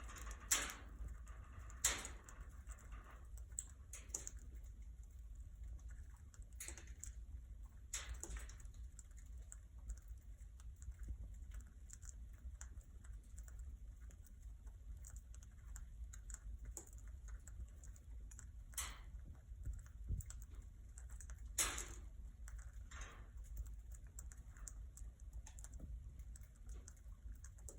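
Budgies pecking and cracking seed: irregular small clicks and taps, a few louder knocks among them, over a low steady hum.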